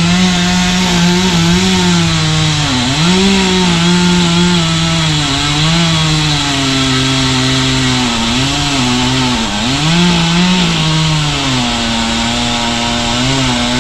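Two-stroke chainsaw running at high revs and cutting, its pitch sagging and recovering several times as the chain bites into the wood.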